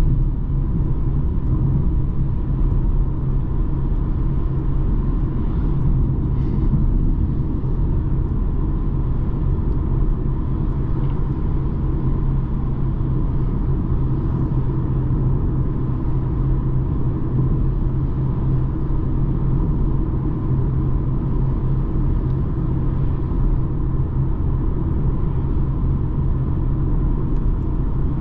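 BMW 220d xDrive Gran Coupe driving along: a steady, even low rumble of its four-cylinder diesel engine and tyre and road noise, with a faint steady whine on top.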